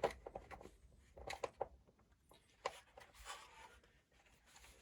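Hands handling an O-ring assortment set: scattered small clicks and taps, with a short rustle a little past three seconds in.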